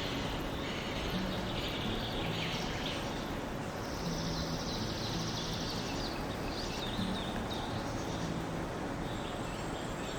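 Songbirds chirping, with a longer trill about four seconds in, over a steady outdoor background rumble.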